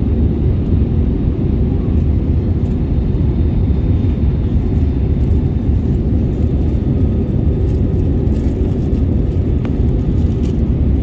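Jet airliner cabin noise: a loud, steady low rumble of engines and airflow, with a faint high whine above it.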